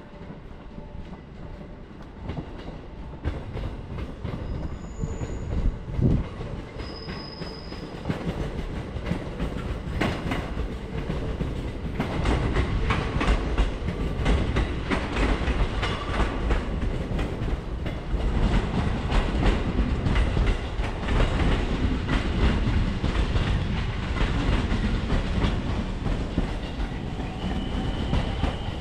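A train running on rails, its wheels clattering over the track with a low rumble; it grows steadily louder, loudest in the second half.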